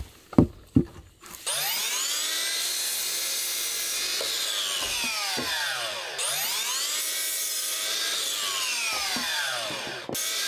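A few short knocks on wood, then wood being sawn: a steady rasping cut that runs in two long passes, with a short dip about six seconds in and a brief break near the end.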